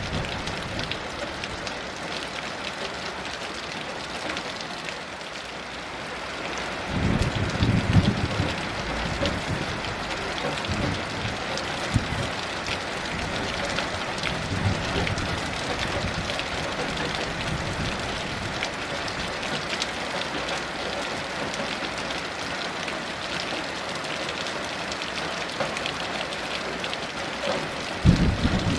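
Heavy rain falling steadily. A low rumble of thunder comes about seven seconds in and fades over a few seconds, and another begins near the end.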